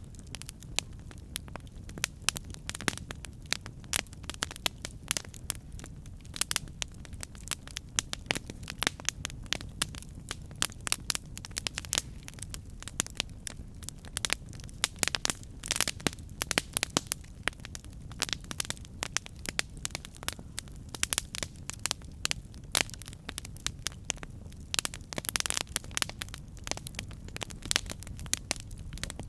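Campfire burning: wood crackling and popping in frequent, irregular sharp snaps over a steady low rumble of the flames.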